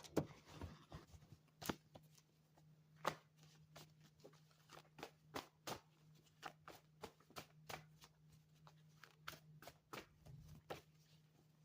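Quiet, irregular light clicks and taps, about two or three a second, over a faint steady low hum.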